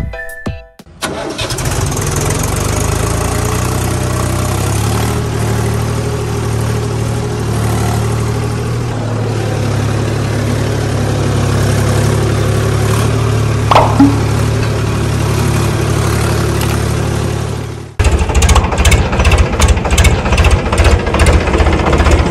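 Tractor engine starting and running steadily, a loud low drone; about eighteen seconds in it cuts abruptly to a fast, even chugging rattle.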